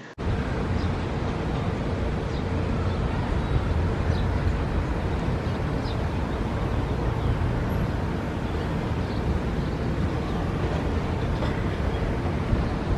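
Steady outdoor rumble and hiss, heaviest in the low end, with a faint steady hum and a few faint short chirps scattered through it.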